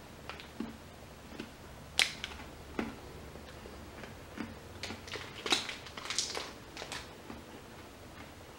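Chewing a hard black sesame cake: irregular crunches and wet mouth clicks, the sharpest about two seconds in and a denser run of them between about five and seven seconds.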